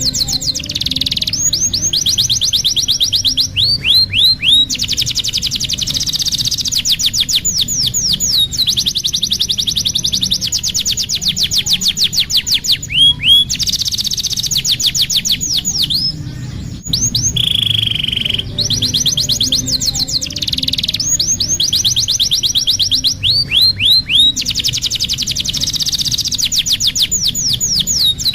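Domestic canary singing a long continuous song of fast trills and runs of quick downward-sweeping notes, with a held whistle at the start and again about two-thirds through. It is a canary tutor song of the kind played to teach young canaries.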